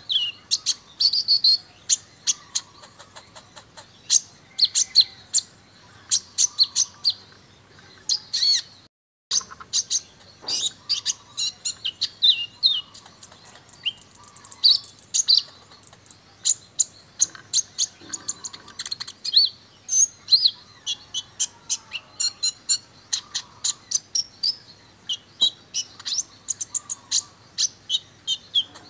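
Brown-throated sunbird (kolibri ninja) singing a fast, unbroken string of sharp, high chirps and short trills, with a momentary break about nine seconds in.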